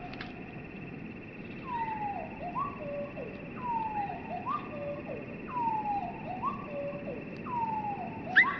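Bird song slowed down to slow-motion speed, so the notes come out low and drawn-out. The same phrase, a falling slurred note followed by a short rising note and a low note, repeats about every second and a half from nearly two seconds in, with a sharper, louder note near the end.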